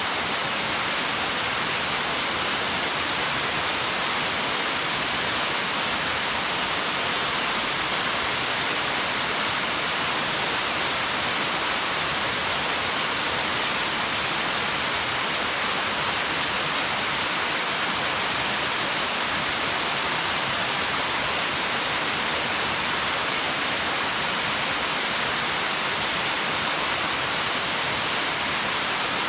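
Small mountain waterfall pouring steadily into a stream: an even, unbroken rush of falling water with no change in level.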